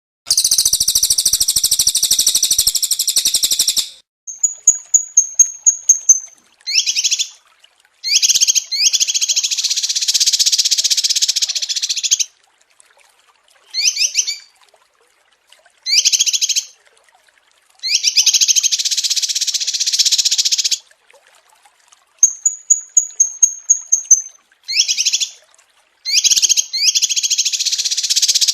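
Small songbirds singing in a compiled birdsong recording. A dense buzzy trill for about four seconds, then a quick run of high chips, then short phrases and longer buzzy trills alternating with brief pauses.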